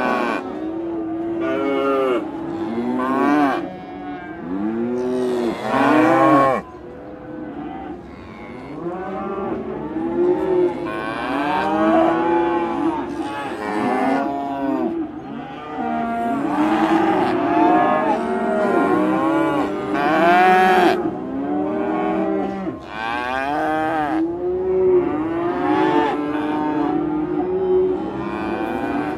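Several cows mooing over one another in a pasture, with hardly a gap between calls. Each moo arches up and then falls in pitch.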